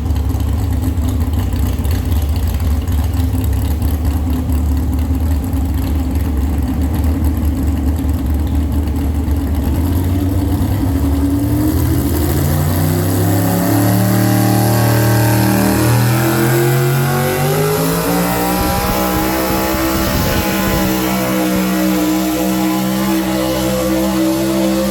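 Super stock pulling pickup's engine idling with a low, steady rumble, then about twelve seconds in opening up and revving, its pitch climbing for several seconds before holding high under full load as the truck pulls the sled.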